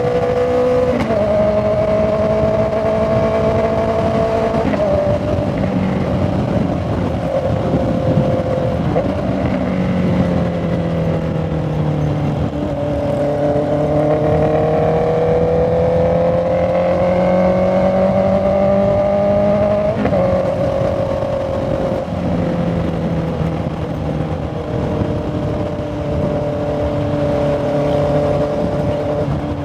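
Honda CB650R inline-four engine and exhaust while riding, with wind rush. The engine note holds, climbs steadily for several seconds, and drops suddenly a few times at the gear changes.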